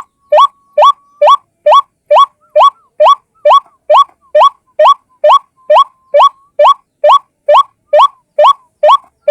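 White-breasted waterhen (ruak-ruak) calling: a rapid, evenly spaced series of short rising notes, about two a second.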